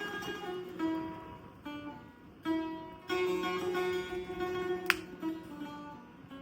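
Persian setar played solo: plucked notes and short phrases ringing over a sustained lower note. About five seconds in, a single sharp crackle from the campfire.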